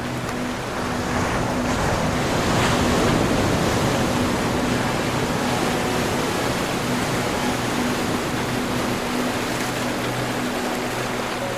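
Ocean surf washing in a steady hiss, one wave swelling up about a second or two in and slowly easing off. Low steady tones sit beneath it.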